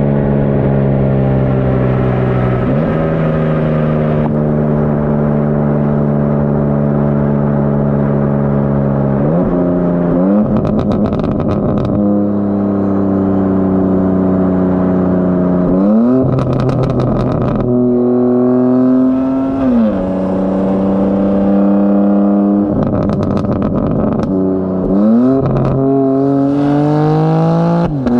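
BMW G82 M4 Competition's twin-turbo straight-six, with downpipes and high-flow cats, driven hard: its note sinks slowly and then jumps sharply up several times through gear changes. Short bursts of exhaust crackle come with several of the jumps.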